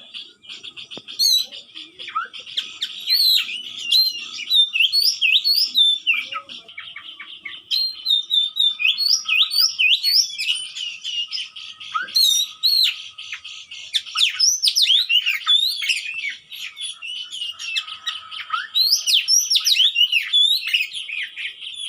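Oriental magpie-robin (kacer) singing a fast, unbroken run of varied whistles, chirps and harsh notes.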